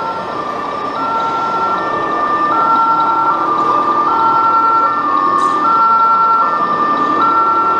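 Scale RC ambulance's sound module playing a two-tone emergency siren, its pitch stepping between high and low about every three-quarters of a second, over the background noise of a busy hall.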